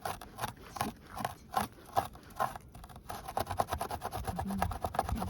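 Hand tool scraping at snow frozen into ice on a car, in separate strokes at first and then a quick run of short strokes about halfway through; the crust is not coming off.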